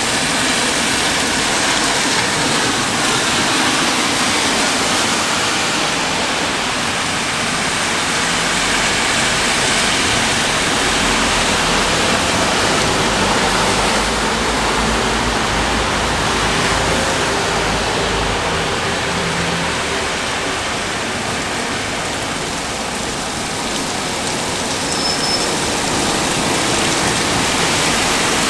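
Steady rain shower falling in a continuous even hiss.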